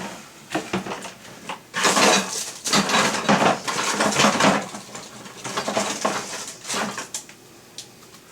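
Metal parts and hardware clattering and clinking as they are handled, in a rapid run of rattles that is busiest in the middle and thins out towards the end.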